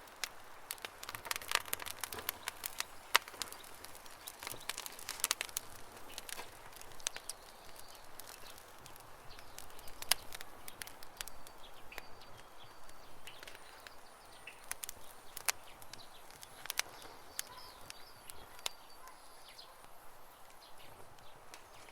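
Campfire crackling with irregular sharp pops and snaps, busiest in the first half. Faint, high bird chirps sound in the background in the second half.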